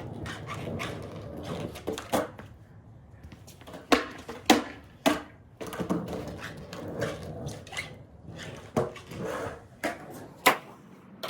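Skateboard trucks creaking and squeaking, with irregular sharp clicks and knocks as the board is worked through turns. The noise comes from dry pivot cups or bushings that need lubricating.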